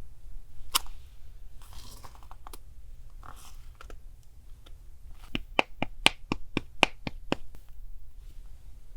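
Paper and craft supplies handled on a desk: a few soft rustles and clicks, then a quick run of about nine sharp taps and clicks about five seconds in.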